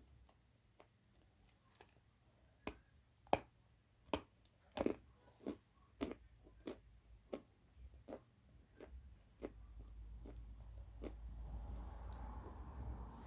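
Dry blue clay being bitten and chewed: a series of sharp crunches, about one every half second, loudest a few seconds in, giving way to a softer, duller chewing noise near the end.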